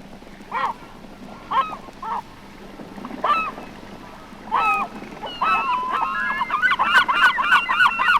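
Herring gulls calling: single calls spaced a second or so apart, then from about five seconds in a fast run of overlapping calls, several each second, louder.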